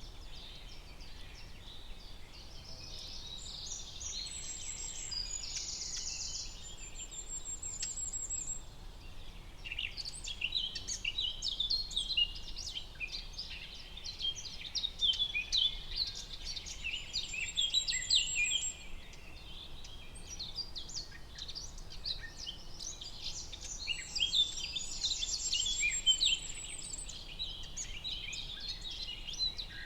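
Many songbirds singing together in a chorus of overlapping chirps and trills, with a high, rapid trill standing out three times.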